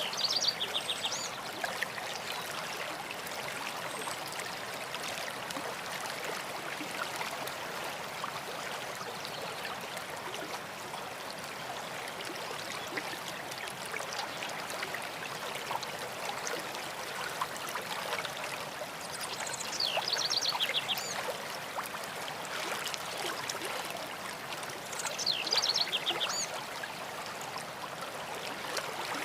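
A stream running steadily, with songbirds singing short, quick trilled phrases over it: one near the start and two in the second half.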